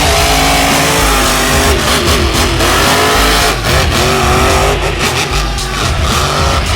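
Mud-racing mega truck engine revving hard, its pitch rising and falling several times as the throttle is worked.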